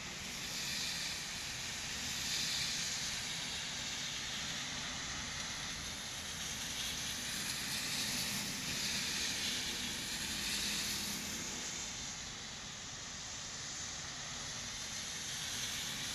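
Rain falling steadily: a dense, even hiss that swells and eases over several seconds.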